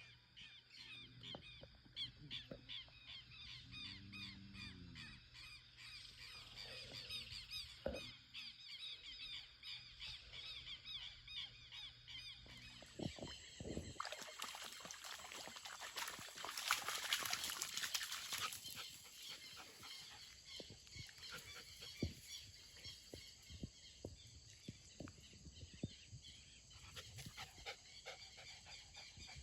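Faint countryside sounds: a steady rapid chirring of small creatures, a short low animal call about four seconds in, and scattered knocks and rustles, with a brief rushing swell about halfway through.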